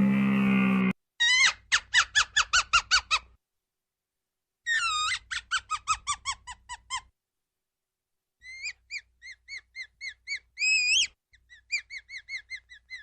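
A cow's moo ends about a second in. After an abrupt cut come three bouts of short, high-pitched squeaky animal calls, each dropping in pitch, about four a second, with one longer call near the end.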